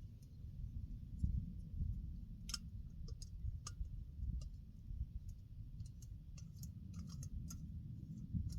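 Irregular light clicks and taps of camp cooking gear being handled, over a low steady rumble.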